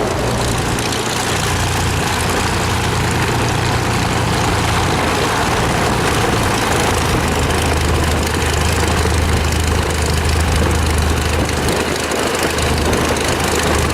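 Navion's single piston engine and propeller running with a steady low drone, with hiss above it.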